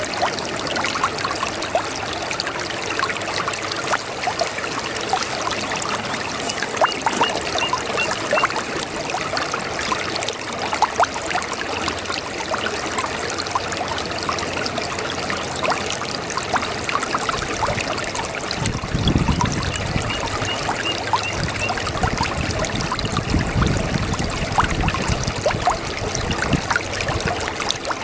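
A babbling brook, water trickling and gurgling steadily with many small splashes and bubbles. Deeper gurgling swells come in about two-thirds of the way through and again near the end.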